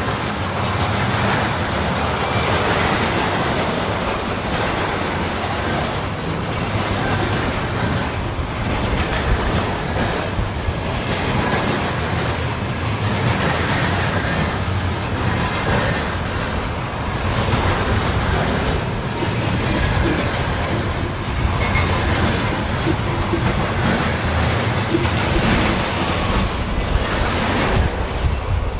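Freight train wagons rolling steadily past at close range, their wheels clattering over the rail joints.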